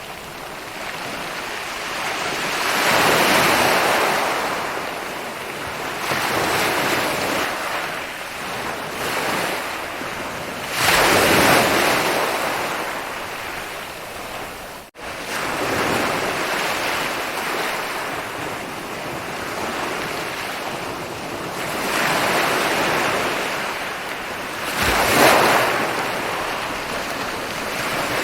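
Ocean surf breaking and washing up a beach, the rush swelling and fading every few seconds, with one wave louder than the rest near the end. The sound cuts out for a split second about halfway.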